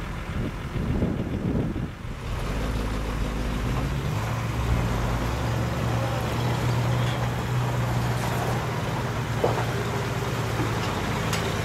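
International Harvester Scout engine running steadily at low speed while crawling up a rocky off-road trail, a low even hum.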